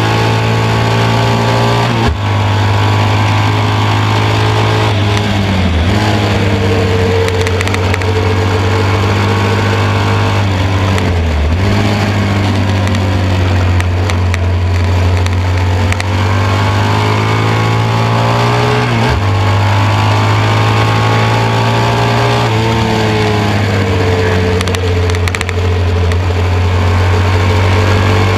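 1972 BMW R75/5 racing motorcycle's air-cooled flat-twin engine running hard, heard onboard. Its note drops sharply and climbs again several times through the corners, over steady wind rush.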